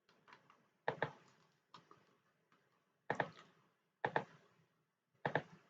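Sharp clicks from computer controls, mostly in close pairs, coming every second or so.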